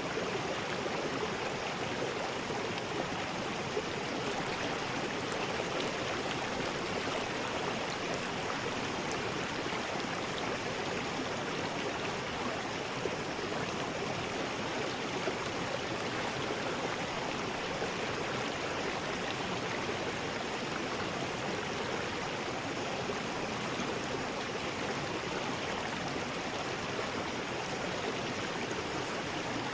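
River rapids rushing in a steady, unbroken roar of white water.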